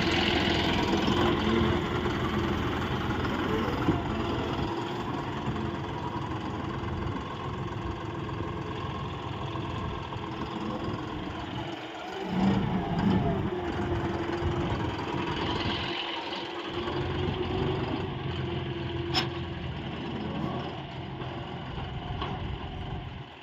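John Deere 5310 tractor's diesel engine running steadily, growing louder for a moment about halfway through, with a single sharp click later on.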